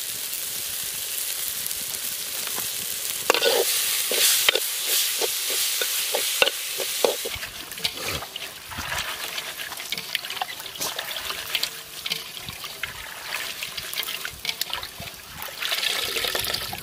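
Spice masala sizzling in a wok while a spatula scrapes and stirs it in quick strokes. About halfway through this gives way to quieter rustling as chopped banana flower is handled in a bowl, with water dripping as it is squeezed out near the end.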